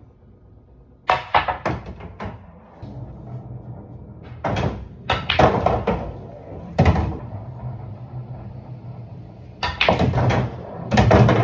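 Pool balls clacking together on a billiard table: clusters of sharp clicks, with a pause of a few seconds between clusters.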